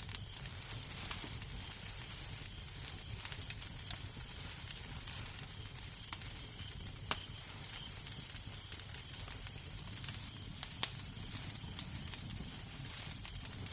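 Wood fire crackling in a fireplace: a steady hiss and low rumble with sharp pops scattered irregularly throughout, the loudest pop about eleven seconds in.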